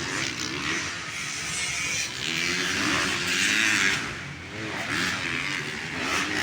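Motocross dirt bike engines revving, their pitch rising and falling repeatedly over a steady hiss.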